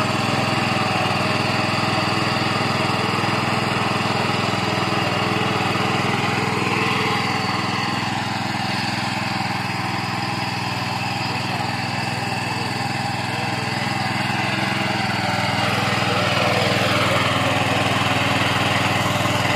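Kama engine of a four-wheel power weeder running steadily, a little quieter in the middle and louder again for the last few seconds.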